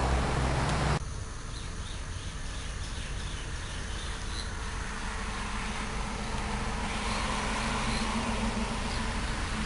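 A loud low rumble cuts off abruptly about a second in. It gives way to a steady outdoor hiss with faint high chirps, and a low steady hum joins about six or seven seconds in.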